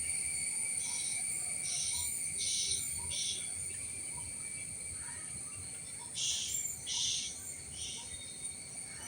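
Forest wildlife sounds: a steady high-pitched drone of insects, with a run of short rasping calls four times in a row about a second in, and again about six seconds in.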